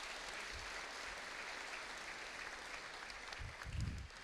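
Audience applauding steadily, the clapping fading out near the end, with a low thump just before it ends.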